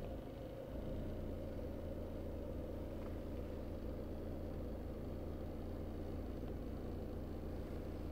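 Citroën Xsara 1.6 16v four-cylinder petrol engine idling steadily, an even low hum heard from inside the cabin.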